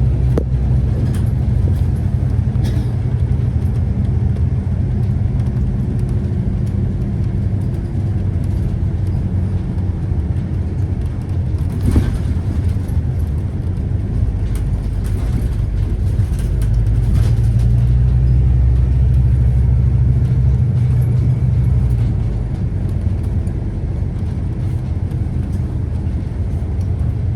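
Scania Citywide CK320UB city bus running: a steady low engine and road rumble that grows louder for several seconds past the middle, then eases, with one sharp knock about twelve seconds in.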